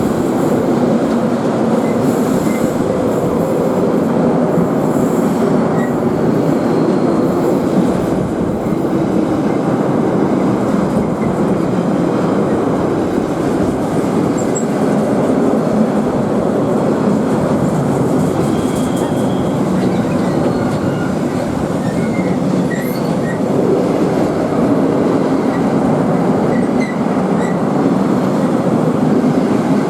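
A train passing, its wheels running on the rails in a loud, steady rumble throughout.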